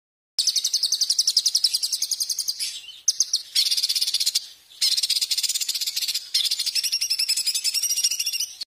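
A songbird's rapid, high-pitched scolding trill: a very fast run of sharp repeated notes in phrases of one to two seconds with short breaks between them, cutting off abruptly near the end.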